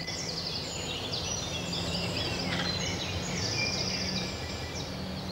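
Several small birds chirping and trilling over a steady low hum.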